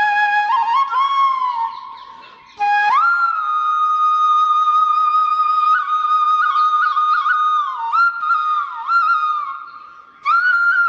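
Background music: a solo flute playing a slow melody of long held notes with slides between them. The line fades away and comes back in twice, about two seconds in and again near the end.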